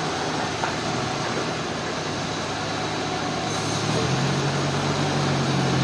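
Sawmill machinery running steadily: an even, dense noise, with a low engine hum coming in about four seconds in.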